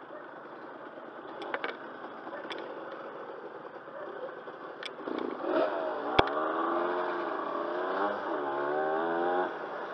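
Dirt bike engine pulling away. About five seconds in it accelerates, its pitch rising, dipping once and rising again, then falling off near the end. Scattered clicks and a sharp knock about six seconds in.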